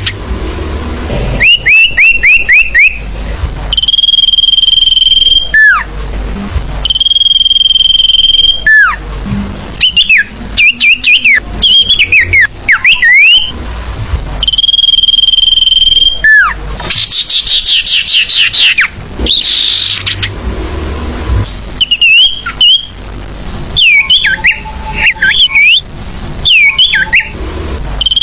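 Lure-call recording of the sirfu songbird, played loud: long steady high whistles alternate with quick series of chirps and sharp downslurred notes, the phrases repeating over and over.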